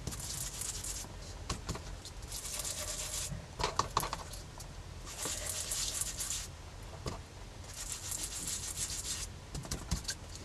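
Rubbing strokes on a paper craft tag as yellow colour is worked into the surface, coming in four spells of one to two seconds with short pauses and a few light clicks between.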